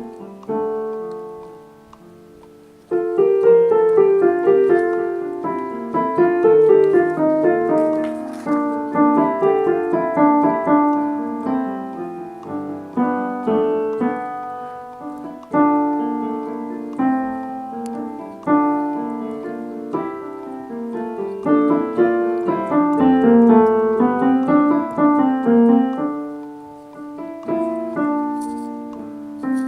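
Piano playing a choral part-learning track: a chord dies away over the first few seconds, then a louder passage of moving notes and chords comes in suddenly and carries on.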